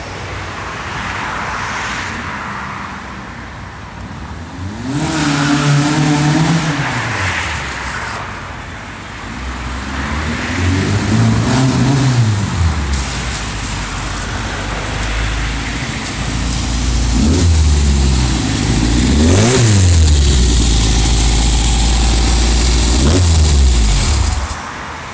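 A 2276cc car engine revved repeatedly, its pitch climbing and falling back about five times, then cutting off suddenly near the end.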